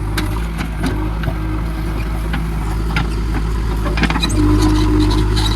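JCB backhoe loader's diesel engine running steadily, with a few short knocks over it.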